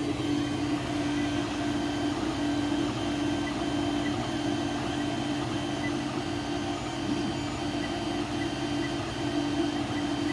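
Two Creality Ender 3 3D printers running: their stepper motors whine in a pitched tone that breaks off and resumes every second or so as the print heads move, over a constant hum from the printers' fans.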